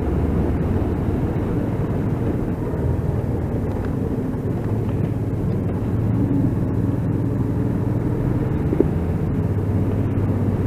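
Motorcycle engine running steadily on the move, heard muffled through a microphone inside the rider's helmet, with wind rush over the helmet; a small tick near the end.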